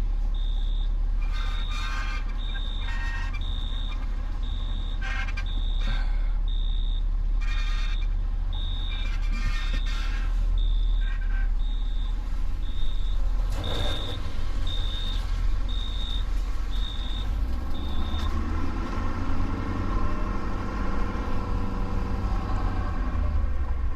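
A backup alarm beeping steadily about once a second, stopping about three-quarters of the way through, over the steady low rumble of a truck engine.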